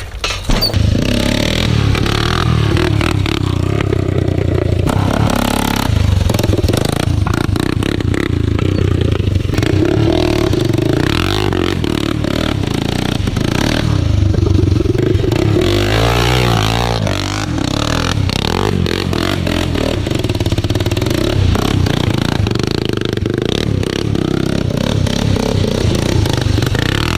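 Honda 400EX quad's single-cylinder four-stroke engine running and revving up and down through its custom exhaust, starting loudly about half a second in.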